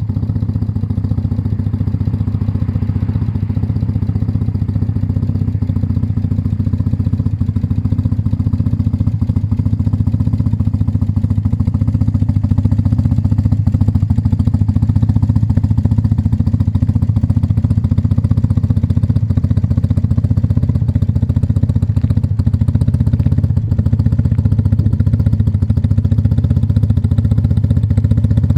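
BMW R80's air-cooled boxer twin engine running steadily, a little louder from about twelve seconds in.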